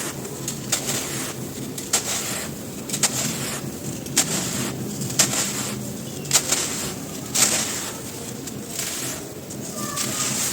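Dry, dusty cylinders of crumbling floor material being broken by hand, giving irregular crisp crunches and snaps every half second to a second over a steady gritty rustle.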